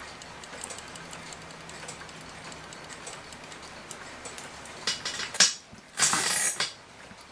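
Regula cuckoo clock movement ticking steadily. About five seconds in come a few sharp clicks, then a short, louder rustling clatter of parts being handled.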